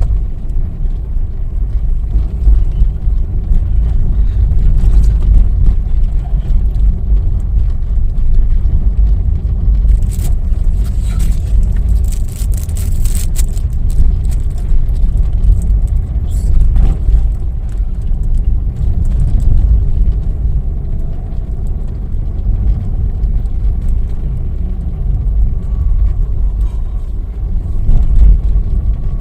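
A car's low, steady engine and road rumble heard from inside the cabin, with a stretch of crackly hiss and clicks about ten to fourteen seconds in.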